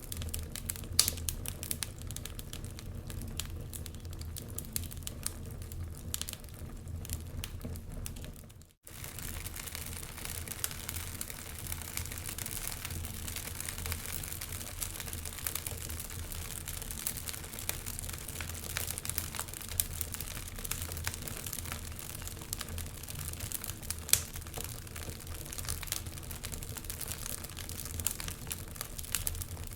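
Wood fire crackling in a fireplace, a steady run of small pops and snaps over a constant low rumble. The sound drops out for an instant about nine seconds in, then carries on.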